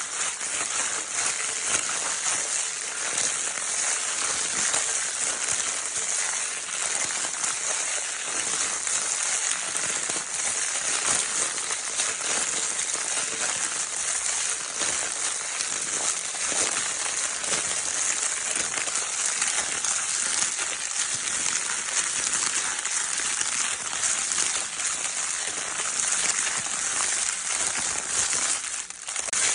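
Crinkle paper of a baby's crinkle toy being crinkled continuously, a dense steady crackling.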